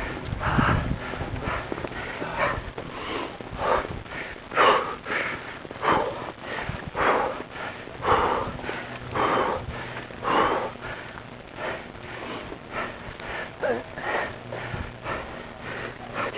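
A cyclist breathing hard and rhythmically, about one heavy breath a second, from the effort of pedalling up a steep hill climb.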